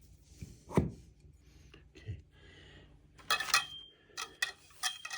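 Metal planter-frame bars and their fittings knocking and clinking as they are handled and fitted together: a dull thud about a second in, then two clusters of sharp clinks that leave a brief ring.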